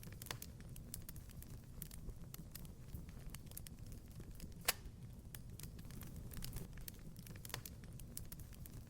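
Wood fire crackling in a fireplace: irregular small pops over a steady low rumble, with one sharper, louder pop about halfway through.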